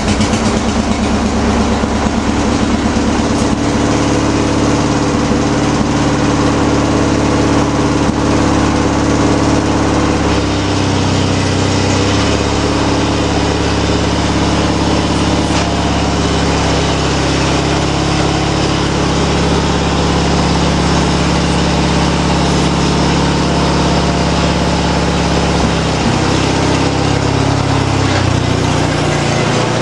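Craftsman lawn tractor's opposed-twin engine running steadily on a cold start, a little rough after sitting all winter. About the first two seconds it is still catching and firing unevenly before it settles.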